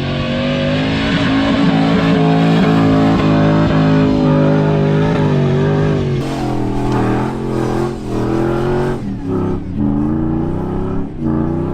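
Off-road vehicle's engine revving hard under load, holding a steady high pitch for about six seconds, then falling and rising again several times as the throttle is worked.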